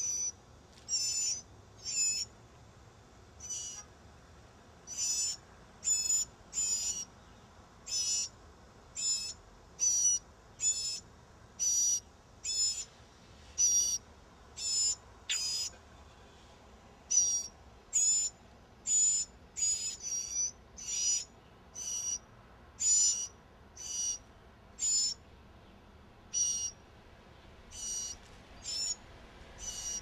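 Mockingbird nestlings making high, thin begging calls, repeated about once a second, as they sense a parent arriving with food.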